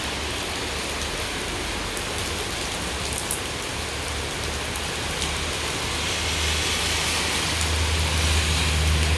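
Heavy rain of large drops falling steadily, with a few sharper drop ticks now and then. A low rumble swells near the end.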